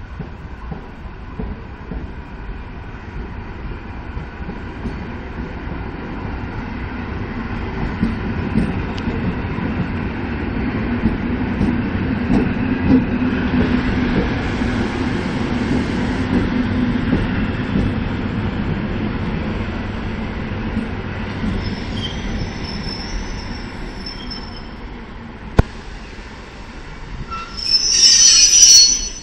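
EN57 electric multiple unit rolling through the station, its rumble and wheel noise building to a peak midway and then fading. Near the end comes a brief, loud, high wheel squeal.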